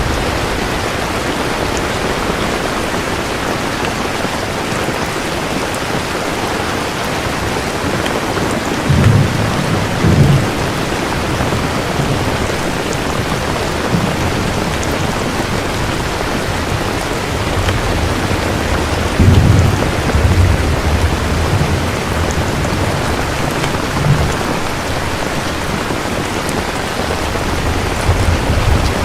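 Steady heavy rain with repeated low rolls of thunder, the loudest rumbles about a third of the way in and again around two-thirds through.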